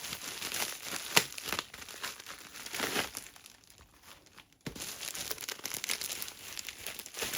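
Packaging crinkling and rustling as a diamond painting kit is handled, with a few sharp clicks. It goes quiet for about a second past the middle, then starts again.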